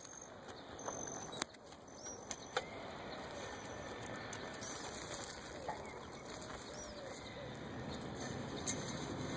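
Birds in a tree, with a steady fluttering rustle. A few faint, short, high chirps come through now and then.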